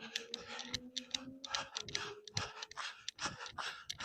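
Irregular scuffs, scrapes and clicks of a person shifting about on rocky ground, with a faint steady hum in the background for about the first second and a half.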